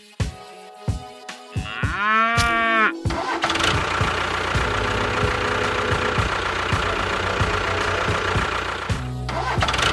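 Background music for about three seconds, then a small engine starts and runs steadily with a regular low knock.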